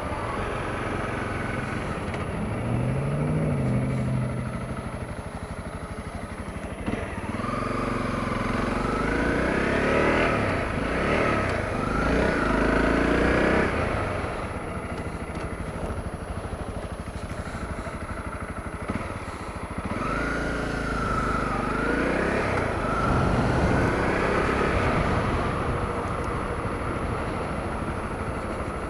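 Honda CRF250L's single-cylinder four-stroke engine running as the motorcycle is ridden, its pitch rising and falling as the rider speeds up and eases off, twice rising more strongly, about a third of the way in and again past the middle.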